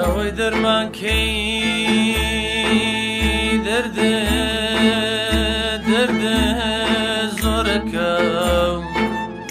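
Instrumental passage of Kurdish folk music: a wavering melody over a held drone, with a low bass beat about once a second.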